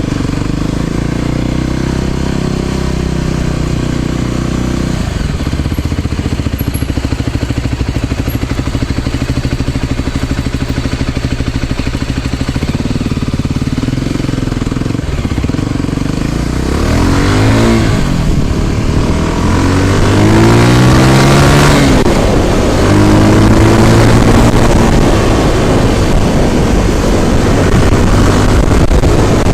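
Motorcycle engine running under way uphill, steady at first, then revving up with rising pitch several times in the second half and getting louder.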